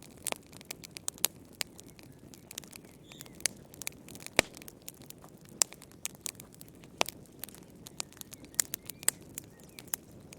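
Wood fire crackling in a fireplace: irregular sharp pops and snaps over a low hiss, with one loud pop about four seconds in.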